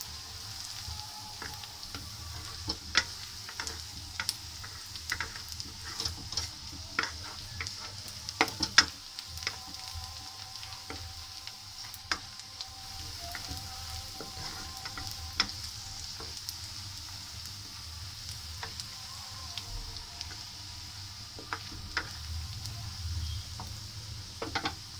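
Sliced onions sizzling in hot oil in a wok, stirred with a wooden spoon that knocks and scrapes against the pan in short sharp clicks. The onions are being half-fried as the base of a masala.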